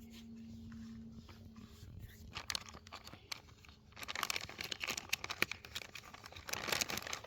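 Crinkly wrapping being handled: scattered clicks, then from about four seconds a run of dense rustling and crinkling.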